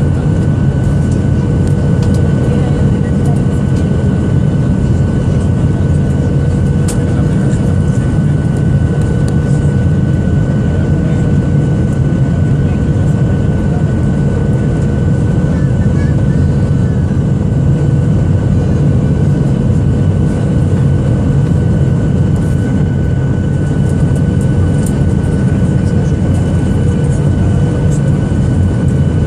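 Boeing 737-800 cabin noise in flight: its CFM56 engines and the airflow give a loud, steady low rumble with a few steady tones over it.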